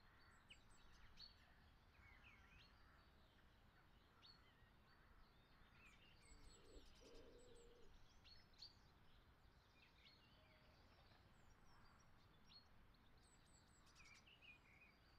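Near silence with faint birds chirping in the background: scattered short, high chirps over a soft hiss.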